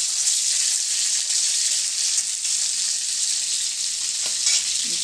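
Marinated chicken tikka pieces frying in hot oil in a pan, with a steady sizzle and a light knock about four seconds in.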